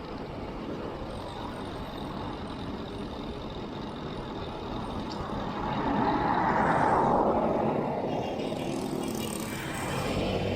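Road and wind noise from riding a bicycle, heard through a chest-mounted action camera. About six seconds in, a motor vehicle passes close by. Its noise swells to the loudest point of the clip, then fades.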